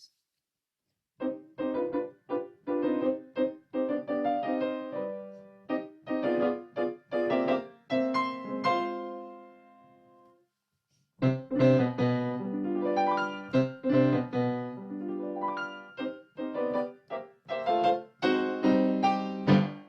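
Piano piece played and picked up through a USB condenser microphone (Audio-Technica AT2020) over Zoom with its 'original sound' setting on, so with little of Zoom's processing. One phrase dies away about ten seconds in; after a short break a louder passage follows.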